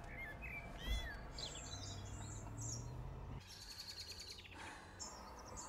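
Faint birdsong: scattered chirps and short gliding calls, with a quick trill about three and a half seconds in. Underneath is a low steady hum that drops away at about the same point.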